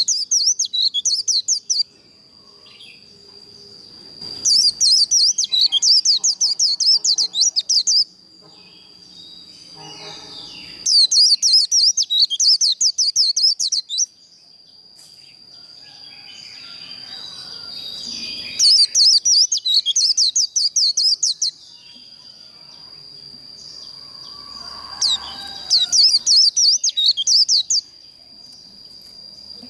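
White-eye (vành khuyên) singing its fast, high chattering 'líu đấu' fighting song in bursts of about three seconds, five times, with pauses between. A steady high-pitched tone runs underneath.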